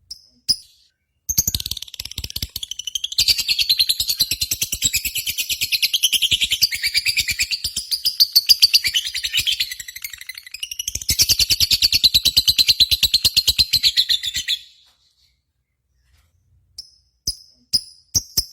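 Lovebird singing a long, very rapid chattering trill lasting about thirteen seconds, after a couple of short chirps. The trill breaks off and is followed by a few scattered single chirps near the end.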